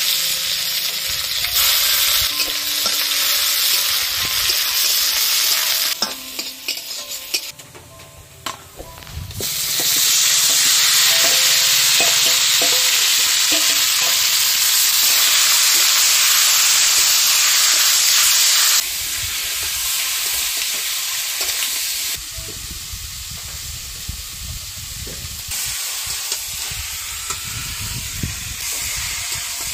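Onions frying in hot oil in a steel kadai, sizzling. About ten seconds in, marinated chicken and potatoes go into the pan and the sizzle swells loud. Then it settles to a lower sizzle with the knocks of a spatula stirring against the pan.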